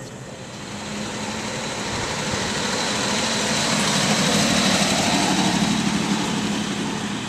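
A motor vehicle's engine going past, swelling to a peak about four to five seconds in and then fading.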